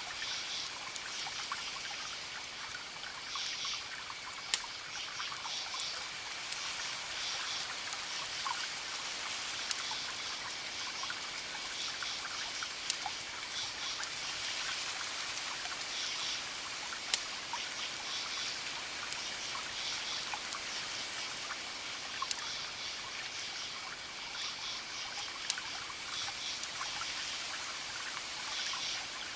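Campfire crackling, with about half a dozen sharp pops, over a steady hiss, while crickets keep up a steady high trill and bursts of chirping every second or two.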